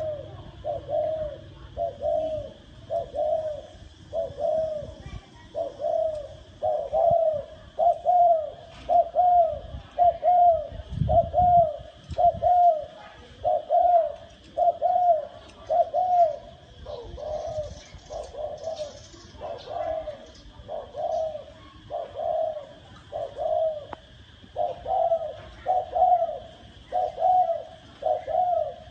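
Female spotted dove cooing in a fast, unbroken run of short low coos, about one a second. This is the female call used to stir a male dove into cooing.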